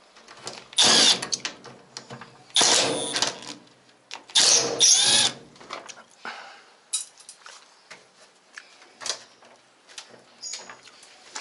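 Power drill-driver run in three short bursts of about a second each, backing screws out of a washing machine's casing, followed by light clicks and rattles as parts are handled.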